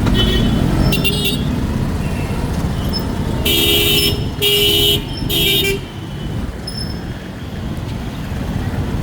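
A vehicle horn honks three short times in quick succession, about three and a half seconds in, over a steady low rumble of road traffic.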